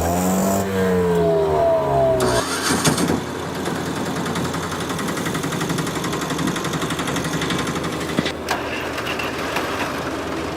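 An engine revving up and down for about the first two seconds, then switching abruptly to a steady, rhythmic idle that runs on evenly.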